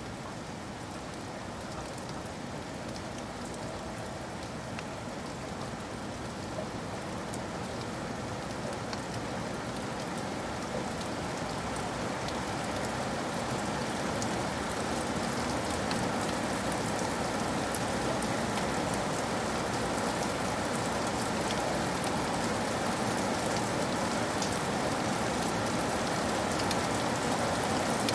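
Steady rain falling on a surface, with the patter of individual drops, slowly growing louder.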